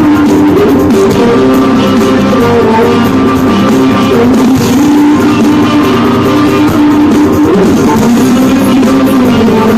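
Loud live fusion-band music, a dense steady mix of held notes over drums.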